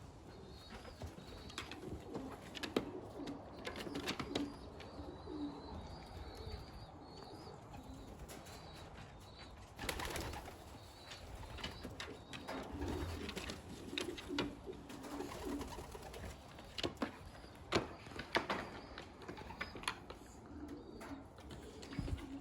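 Racing pigeons cooing, repeated low coos in runs, with faint high chirps. Scattered sharp taps and clicks sound throughout.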